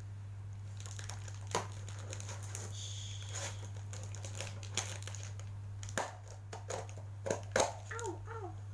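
Plastic packaging crinkling and crackling in uneven bursts as a parcel is unwrapped by hand, over a steady low hum. A short cat meow near the end.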